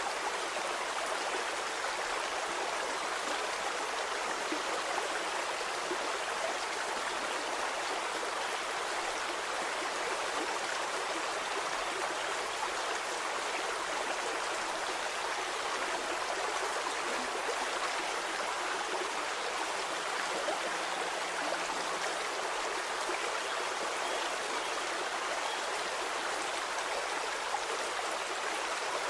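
Stream water flowing steadily over rocks, an even rushing and babbling with no low rumble.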